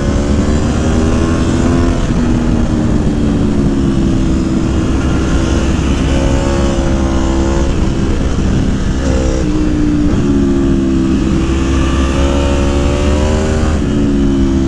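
Aprilia Tuono motorcycle engine, fitted with a Gabro Racing Stage 3 kit and airbox, running under way. The engine note rises and falls several times as the throttle and revs change.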